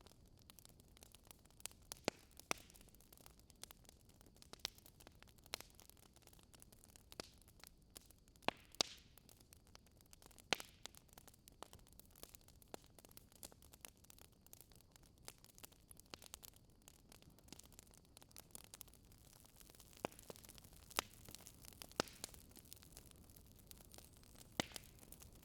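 Fireplace fire crackling faintly: irregular sharp pops and snaps, a few louder than the rest, over a low steady hiss.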